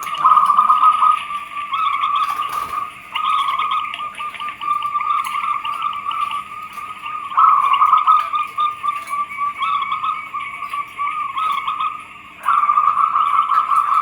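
Zebra doves (perkutut) cooing in a continuous fluttering run of notes, with abrupt shifts in loudness about three, seven and twelve seconds in.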